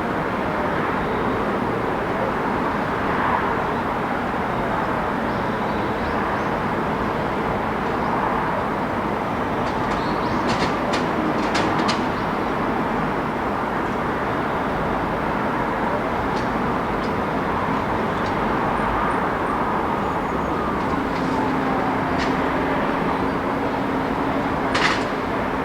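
City street traffic: a steady rush of passing vehicles, with a few sharp clicks about halfway through and again near the end, and a steady low engine hum that comes in near the end.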